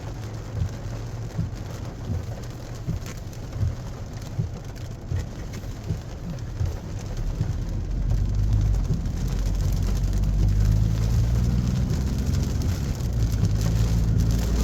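Heavy rain pattering, with individual drops striking a surface; about halfway through, a vehicle's engine and road noise rise and then run steadily underneath the rain.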